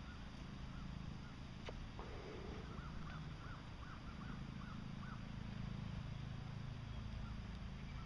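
Faint bird calls: a run of short repeated calls, about four a second, over a steady low hum, with a single click about two seconds in.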